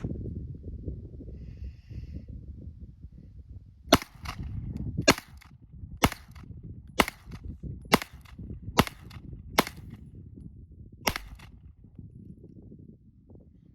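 A gun firing nine single shots in an irregular series, most under a second apart, with a longer gap before the last. Low wind rumble runs underneath.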